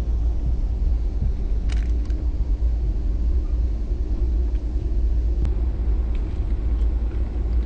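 Steady low rumble of a moving passenger train heard from inside the carriage, with a few light clicks about two seconds in and again near the middle.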